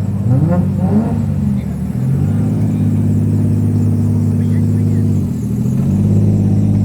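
Car engine revving: quick rises and falls in pitch in the first second or two, then running steadily at held revs, dipping briefly about five seconds in.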